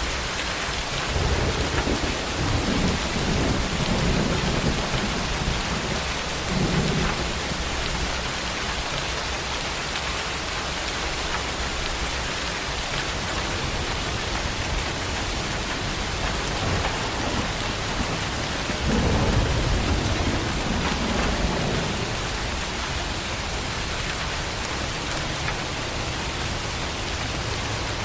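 Steady tropical rain falling, with thunder rumbling low in two long rolls, one starting about a second in and another about two-thirds of the way through.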